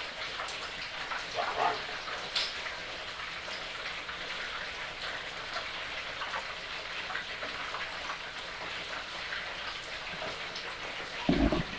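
Whole turkey deep-frying in a pot of hot oil: a steady crackling sizzle of bubbling oil, with a few low thumps near the end.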